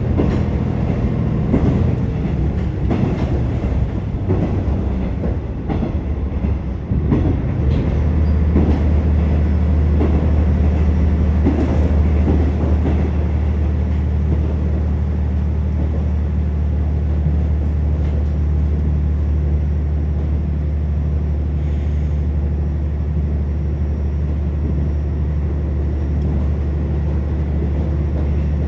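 KiHa 47 diesel railcar running, heard inside the passenger cabin: wheels knock over rail joints in the first several seconds, then about eight seconds in a steady low engine drone comes up and holds under the running noise.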